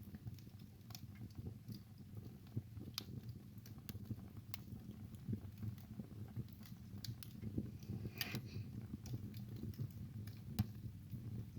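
Wood fire burning in a fireplace: irregular crackles and snaps over a low rumble of the flames, with a short hiss about eight seconds in and a sharp pop about ten and a half seconds in.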